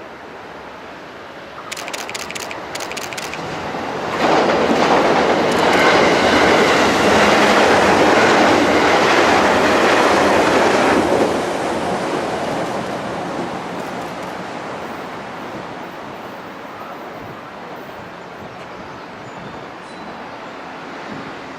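JR West 221 series electric train running past close by, its wheels clacking over rail joints. It grows loud about four seconds in, stays loud for about seven seconds, then fades slowly away.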